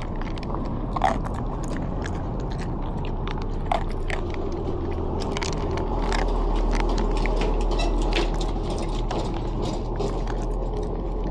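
Dog chewing and crunching dry food, with many irregular crunches over a steady low hum.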